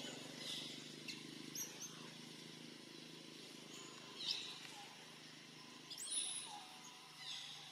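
Scattered short bird chirps, each sweeping down in pitch, the loudest about four and six seconds in, over a faint low steady hum.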